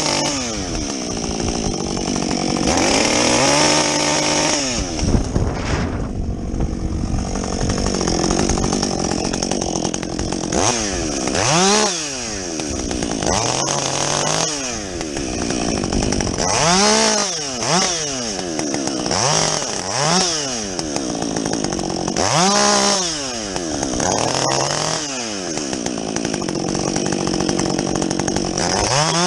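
Husqvarna 562XP two-stroke chainsaw with a modified muffler, bucking felled timber. It runs at high revs, then is throttled up and let back down again and again, the pitch rising and falling with each rev.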